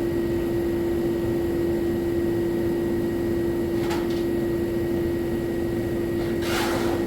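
Steady machine hum with one strong, even tone. Two short rustling or scraping noises come about four seconds in and near the end.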